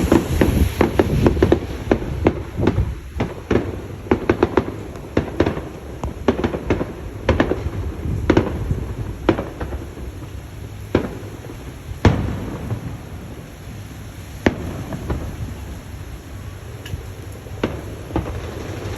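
Fireworks going off: many sharp cracks and bangs over a low rumble, coming thick and fast at first, then spaced a second or more apart.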